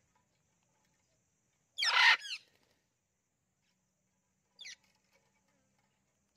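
A parrot calls loudly once about two seconds in, then gives a short, fainter call near the end.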